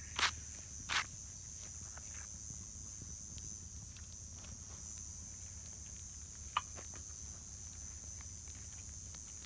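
Steady high-pitched insect chorus, like crickets, with a few sharp knocks: two in the first second and one more about two-thirds through.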